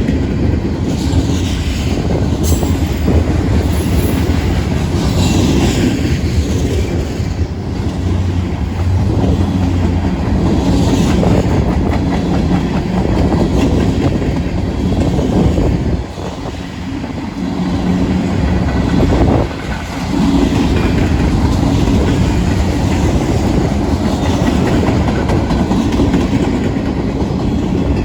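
Union Pacific mixed freight train cars rolling past at close range: a steady rumble with the clickety-clack of wheels over rail joints and brief high wheel squeals.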